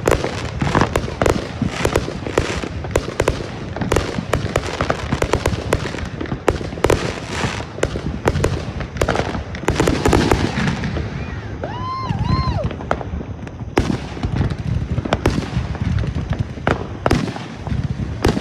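Fireworks going off in a rapid, continuous string of bangs and crackles, several reports a second. A short two-part whistling tone rises and falls about twelve seconds in.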